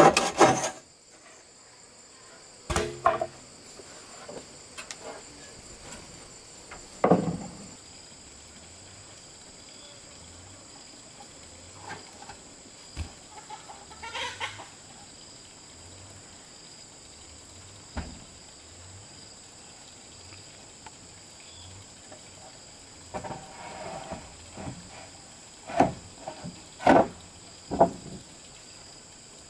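Hand saw strokes on wood that stop about a second in, then chickens clucking and calling now and then, most often near the end, over a faint steady high tone.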